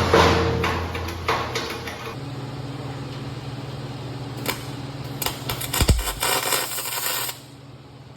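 A few hammer blows on steel in the first second or so, then a steady low hum with scattered clicks and knocks.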